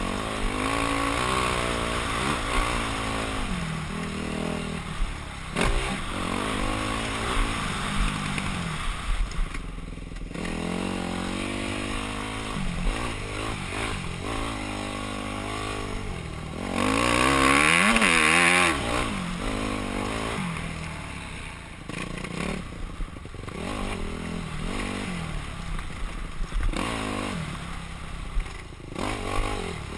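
Yamaha YZ250F's single-cylinder four-stroke engine revving up and dropping back again and again as the rider works the throttle through the gears, with short clattering knocks from the bike over bumps. The longest, loudest full-throttle pull comes about seventeen seconds in.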